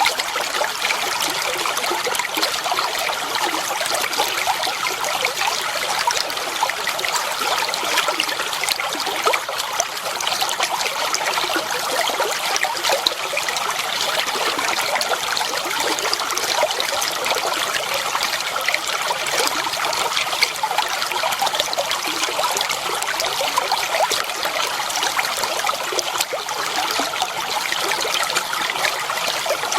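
Clear water flowing and trickling steadily, a continuous babbling splash with fine bubbling detail and no pauses.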